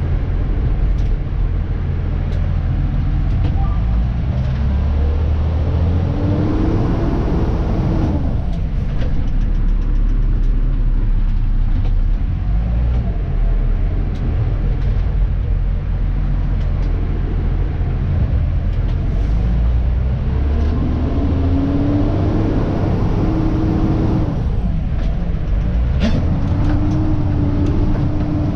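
Dennis Elite 2 refuse truck heard from the cab while driving: a steady engine rumble with a whine that rises in pitch and levels off as it pulls away, twice, then starts rising again near the end. A short hiss of air comes near the end.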